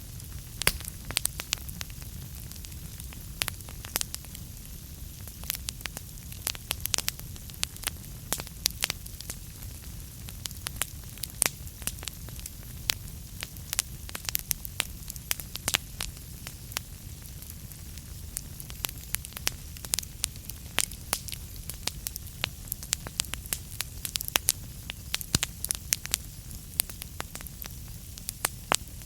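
Wood fire burning in a fireplace: logs crackling with frequent sharp, irregular pops over a low steady rumble of the flames.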